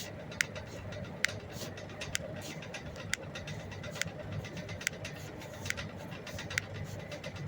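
Loud, sharp clicks from a left foot's joints as the foot is rotated, about one click a second, over a steady low hum.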